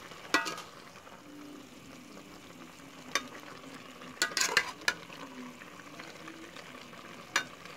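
Pork and pork offal (liver, kidney, heart) frying in a pot under a steady hiss while a metal spoon stirs them. The spoon scrapes and clicks against the pot a handful of times, most in a cluster about four to five seconds in.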